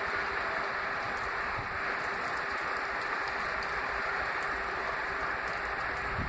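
Steady hiss of a snowstorm, with a faint steady hum underneath.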